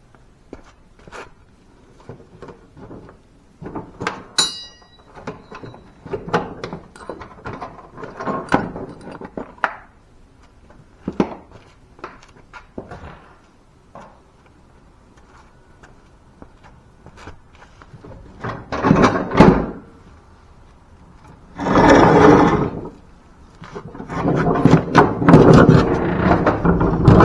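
Metal parts of a zero-turn mower deck being handled and struck: scattered knocks and clanks, one ringing metallic clink about four seconds in. Longer, louder rattling and banging comes in the last third.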